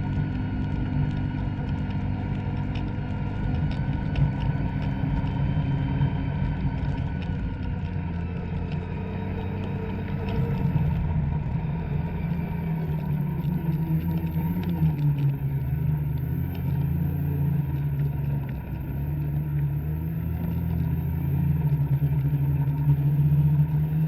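Two-stroke snowmobile engine running under steady throttle; its pitch rises and falls from about halfway through as the throttle changes.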